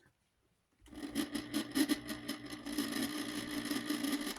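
Small C-frame shaded-pole motor of a Galaxy 9-inch desk fan switched on with its blade removed, starting about a second in. It runs with a steady hum and light irregular clicking, then cuts off near the end. It sounds very healthy.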